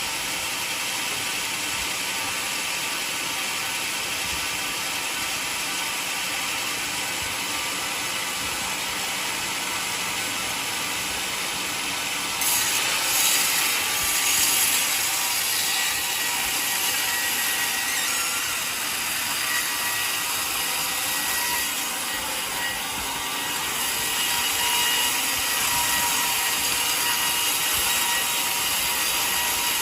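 Sawmill running steadily, its blade cutting through a mahogany log. The sound grows louder about twelve seconds in and again near the last quarter.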